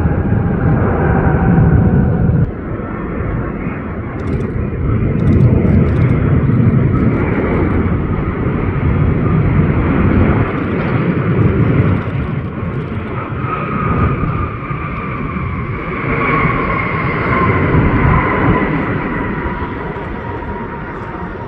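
Jet airliner engines passing close on landing approach: a loud rush of engine noise with a high whine that slowly falls in pitch as the aircraft goes by.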